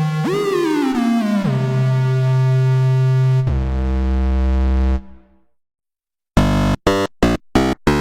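Waldorf Pulse 2 monophonic analog synthesizer playing sustained notes that slide in pitch, one swooping up and then falling, stepping lower twice before cutting off about five seconds in. After a short silence, short staccato notes start repeating about three times a second.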